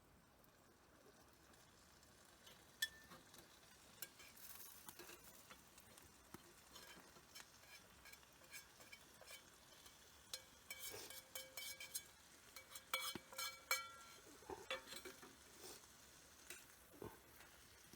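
Faint scraping, clicks and short ringing clinks of metal cookware and utensils, as when food is stirred in a pan, over a faint sizzle. The clinks come thickest a little past the middle.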